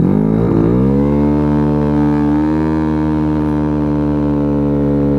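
Dongfang DF50SST's small engine accelerating hard from a stop, its pitch climbing over the first second and then holding high and steady as the bike gathers speed.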